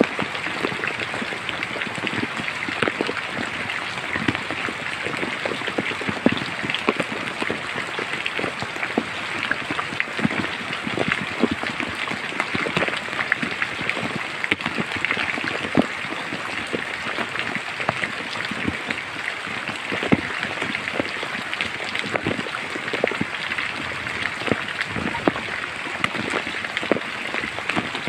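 Steady rain falling in a forest: an even hiss with many separate drops tapping close by.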